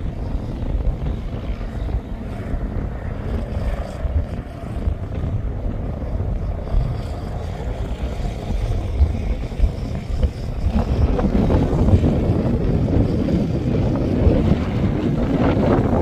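Wind buffeting the microphone over the engines of off-road dune vehicles, with engine sound building about eleven seconds in as one comes nearer.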